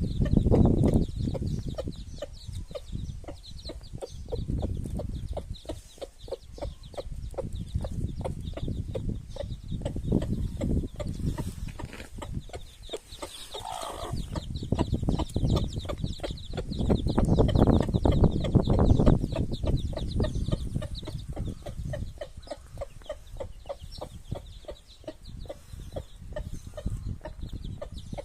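Young chickens clucking, with a rapid patter of small clicks and a low rumble underneath.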